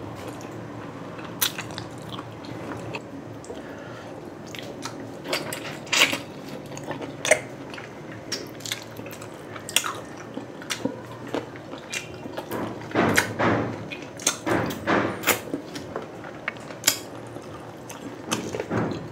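Close-up mouth sounds of a person eating grilled street food: wet smacks and clicks of chewing at irregular intervals, busier about two thirds of the way through, over a faint steady low hum.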